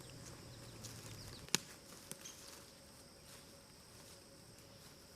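Steady high-pitched insect chorus, with a sharp click about a second and a half in and a smaller click half a second later.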